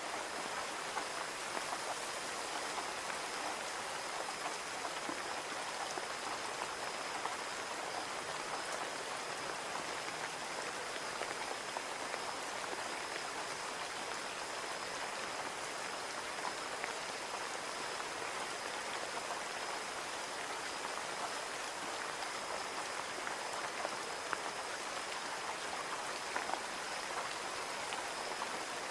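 Steady rain falling on a window, with a constant hiss and many small drops ticking against the glass.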